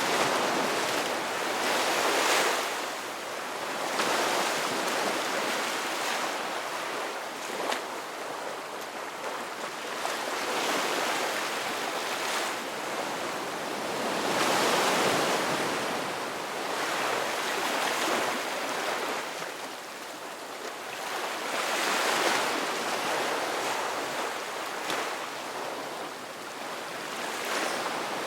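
Ocean surf: waves breaking, the wash swelling and fading every two to four seconds in a steady, unbroken rhythm.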